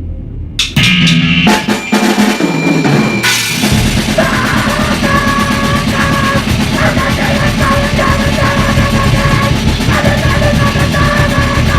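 Loud rock music with a drum kit. Scattered drum hits and notes start under a second in, and the full band comes in about three and a half seconds in.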